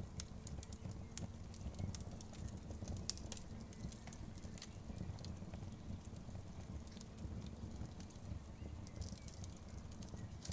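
Wood fire crackling, with frequent irregular sharp pops and snaps over a low rumble of burning.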